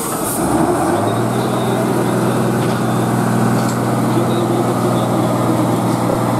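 Truck engine running at steady revs under load, a constant hum that sets in about a second in over a broad rumble.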